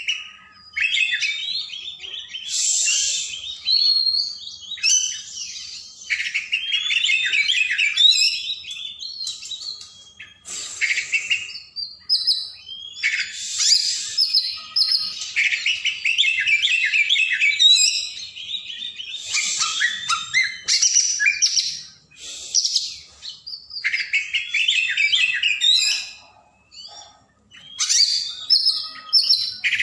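Oriental magpie-robin (kacer) in full song: a long run of rapid, varied whistles and chattering phrases in bursts of a second or more, separated by short pauses.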